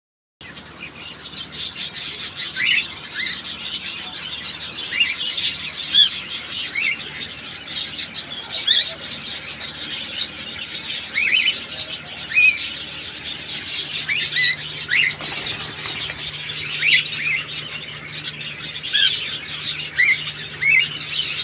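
A flock of cockatiels chirping, with many short rising calls over a busy background, mixed with wing flapping and sharp clicks and scrabbling from the birds.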